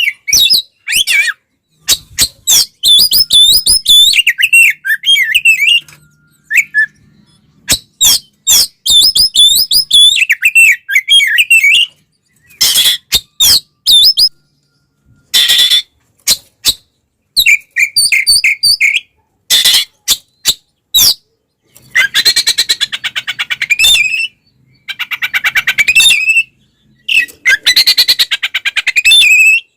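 Oriental magpie-robin (kacer) singing in loud bursts of fast whistled, warbling phrases broken by short pauses. Later come long runs of rapid, harsh chattering. This is the aggressive 'fighting' song that keepers play to provoke other magpie-robins.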